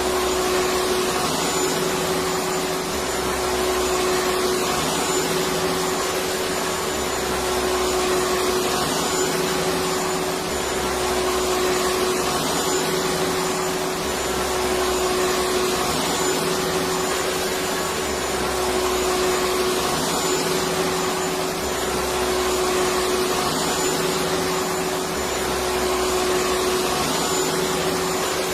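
Electric vacuum cleaner running continuously at a steady pitch with a whining hum. Underneath, a low rumble swells and fades about every three and a half seconds.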